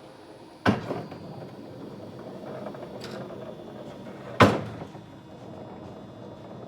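Linde E20 electric forklift working: two loud clunks about four seconds apart, with a lighter click between them, over a steady motor hum.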